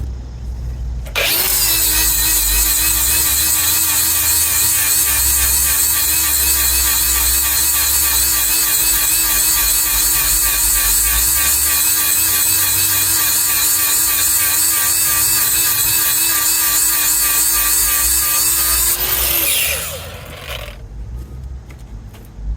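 Power grinder sharpening a cutting tooth on the mill of a horizontal wood grinder. It gives a steady high whine with a grinding hiss, its pitch wavering slightly. It starts about a second in and stops near the end, leaving a low rumble.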